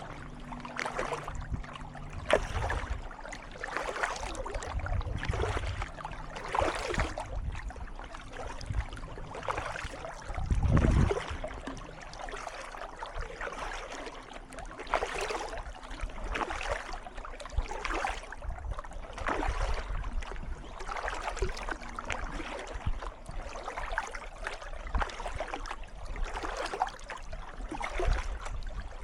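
Kayak paddle strokes dipping and splashing in calm water, about one stroke a second in a steady rhythm, with a louder low thump about eleven seconds in.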